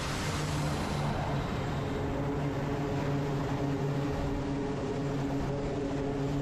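Aircraft engines running steadily: a low, even hum over a broad rushing noise that does not change.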